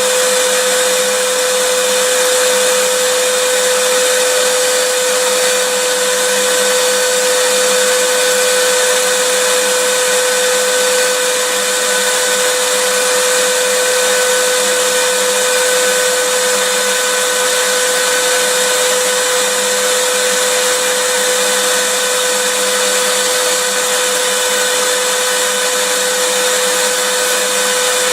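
Vacuum cleaner running steadily: a constant rushing hiss with a fixed whine at a single pitch, no change in speed.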